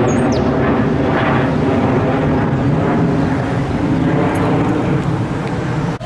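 Steady, loud engine drone with a low hum.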